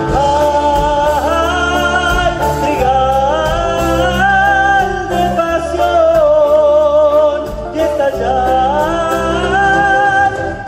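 Argentine popular-folk band's song: a melody line sliding between long-held notes over a steady bass beat.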